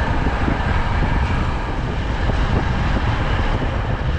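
Steady engine rumble and wind rush from riding on a motorcycle taxi through traffic.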